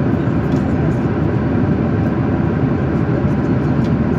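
Steady drone of an airliner cabin in flight: jet engine and airflow noise heard from inside the passenger cabin, even and unchanging.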